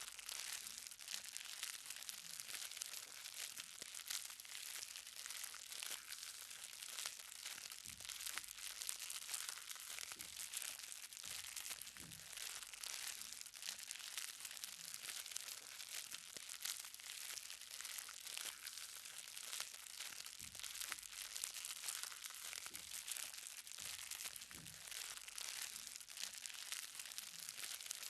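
Light rain: small raindrops pattering on the ground in a dense, even crackle.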